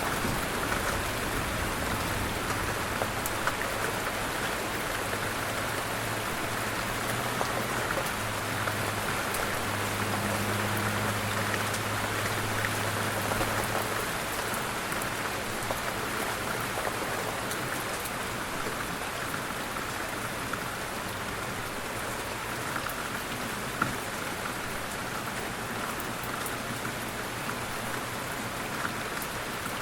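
Light rain falling steadily, pattering on a surface, with a low steady hum underneath that fades about halfway through. There is one slightly louder drop about three quarters of the way in.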